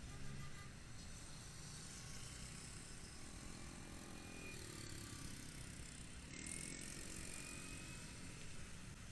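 Wind rumble and road noise from a moving motorcycle, with the traffic noise swelling twice.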